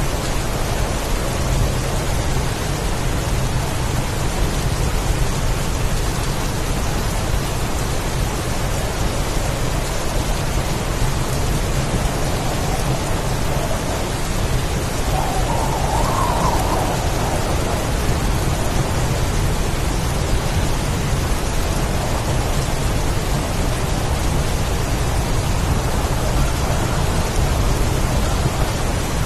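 Steady heavy rain in a storm, an even downpour with a brief swell about halfway through.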